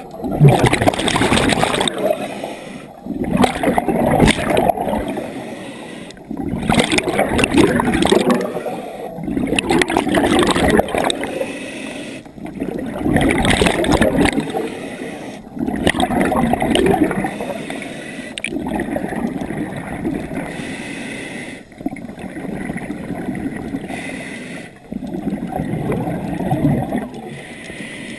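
Scuba diver breathing through a regulator underwater: exhaled air bubbles out in a loud burst about every three seconds, with quieter inhalations between.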